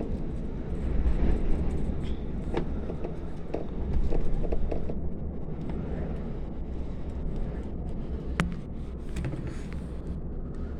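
Blizzard wind of about 28 m/s gusting, a deep rumbling noise that swells and eases, with a couple of sharp clicks.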